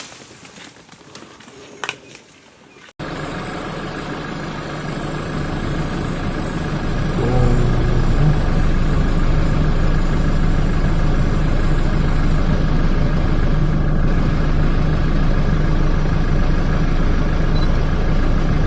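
A vehicle engine idling steadily, starting abruptly about three seconds in. It gets louder about seven seconds in and then holds level. The first few seconds are quieter, with a few faint sounds.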